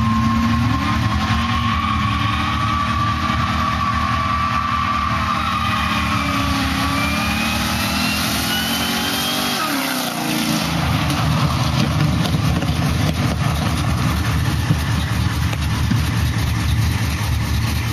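Supercharged Ford F-150 Harley-Davidson V8 held at high revs, its Kenne Bell twin-screw supercharger whining and slowly rising in pitch. About ten seconds in the revs drop sharply, and the engine settles to a lower, choppy running sound.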